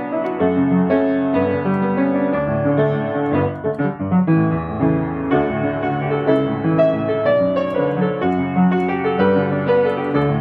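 Solo piano playing a melody over chords, notes changing continually.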